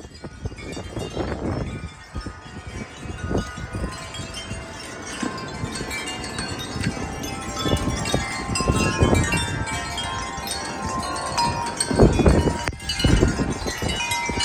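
Wind chimes ringing continuously and chaotically, many overlapping tones struck by strong gusty wind. Wind gusts rumble on the microphone, loudest about twelve seconds in.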